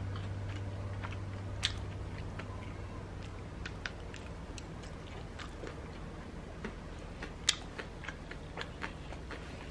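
Someone chewing crisp pan-fried dumplings coated in a sticky red sauce, with small irregular crunching clicks.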